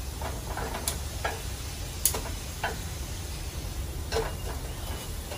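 Shrimp fritters frying in a pan of oil while being turned with chopsticks: a handful of sharp clicks and pops, roughly one a second, over a low steady hum.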